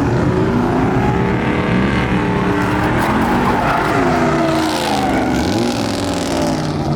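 Car engine revving hard, rising and falling in pitch several times, with tyre squeal and skidding noise in the middle, as in a burnout.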